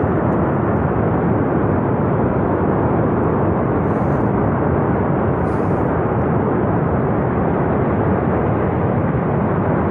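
Glacier-burst flash flood of water and debris rushing down a river valley: a loud, steady rumbling noise without a break.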